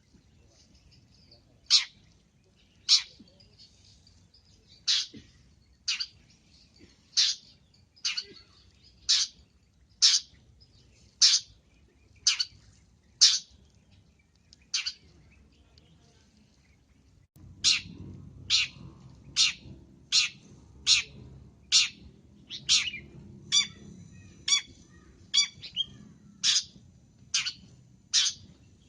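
Long-tailed shrike (cendet) calls: a series of short, sharp, loud notes about one a second, coming faster and closer together from a little past halfway, when a low background rumble also comes in.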